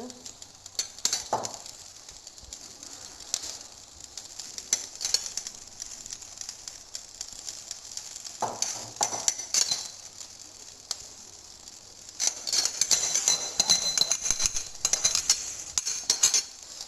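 A spoon scooping rice and spreading it in a pot as a biryani is layered: scattered scrapes and clinks of the spoon against the pot, getting busier and louder near the end.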